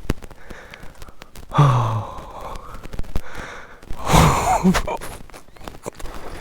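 A man sighing and exhaling hard twice, about one and a half seconds in and again about four seconds in: a dirt-bike rider out of breath after a hard stretch of trail. Scattered sharp clicks are heard between the breaths.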